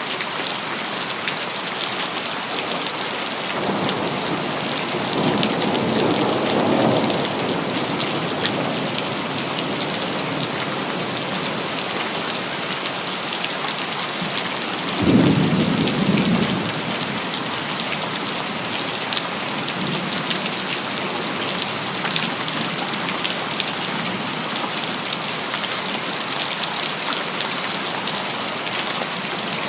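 Steady rain falling, hissing evenly throughout. Thunder rolls in about four seconds in and rumbles for a few seconds. About halfway through, a sharper, louder thunderclap follows, which fades within a second or two.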